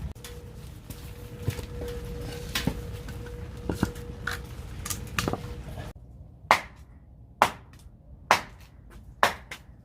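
Firewood being split by hand: four loud, sharp blows about a second apart in the second half, each ringing out hard. Before them come a few light knocks and clatter.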